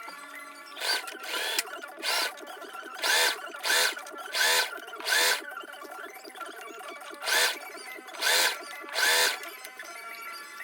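Heavy-duty sewing machine running in about ten short bursts of under a second each, stitching hair wefts. Its motor whine rises and falls within each burst.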